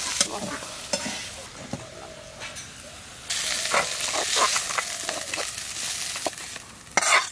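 A metal spatula stirring leafy greens frying in a wok, with a soft sizzle. About three seconds in it turns louder and scrapier as the cooked greens are scraped out of the wok onto a steel plate.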